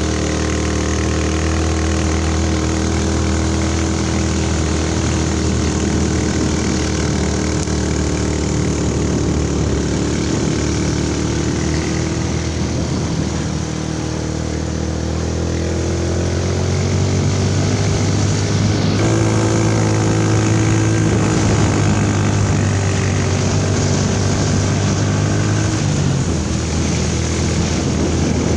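Small motorcycle engine running while riding along a road, a steady engine note that eases off near the middle, picks up again, then shifts suddenly about two-thirds of the way in.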